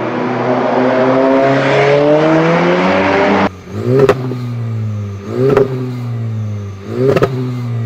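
Four-cylinder car engine accelerating, its note rising steadily for about three and a half seconds before a sudden break. Then come sharp cracks about every second and a half, each with a short rev that falls away.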